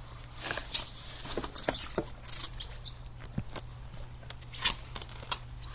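Irregular rustling and crackling with sharp snaps, the loudest about a second in, near two seconds and near the end, like movement through dry brush or leaves.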